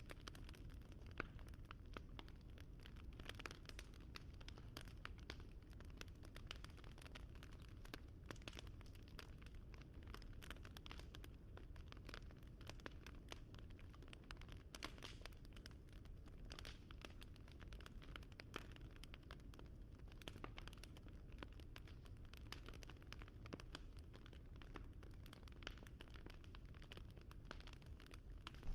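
Faint crackling of a wood fire: many small, irregular pops and snaps over a low steady rumble.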